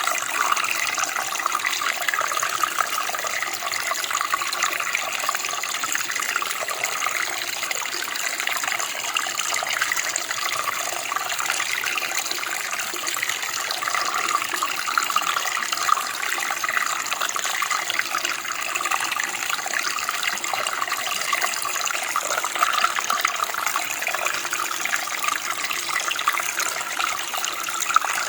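Running water of a small stream or creek, flowing and splashing steadily with a bright, bubbling hiss.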